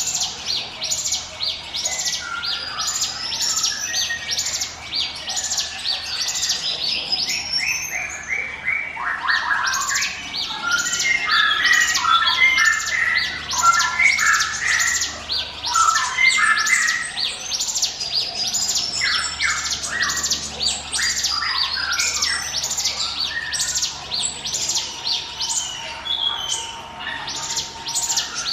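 Ciblek gunung (hill prinia) singing its sharp, high 'ngiwit wit' call over and over, about two notes a second. Busier, lower twittering joins in through the middle.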